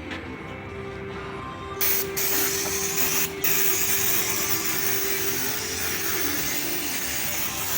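A loud, steady hiss starts about two seconds in and carries on, with a brief break a little later, over a faint steady tone.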